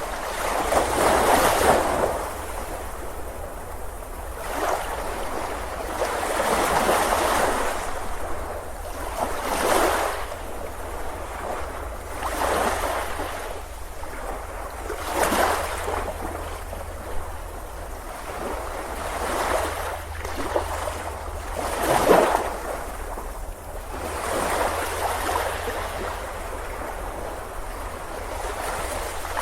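Ocean waves breaking on a beach: surf that swells and falls away every few seconds, the strongest wave about two-thirds of the way through, over a steady low rumble.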